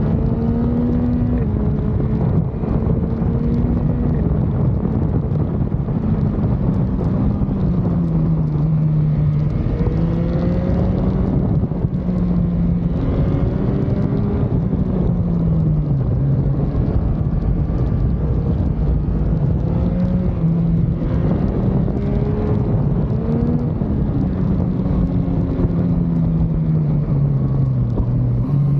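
Motorcycle engine pulling under load, its pitch repeatedly climbing and dropping back as it accelerates, shifts and eases off, over a steady low rush.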